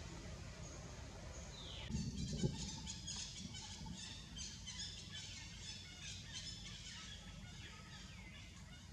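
Birds chirping in quick, repeated high-pitched notes in the forest canopy, starting about two seconds in with a falling whistle. A short thump and rustle comes at the same moment.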